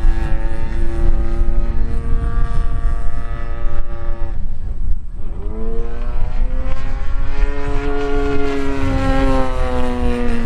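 Desert Aircraft DA-50, a single-cylinder two-stroke gas engine, driving the propeller of a large RC aerobatic plane in flight. The engine note holds steady, almost drops out about four to five seconds in, then comes back and rises in pitch as power is added, and levels off.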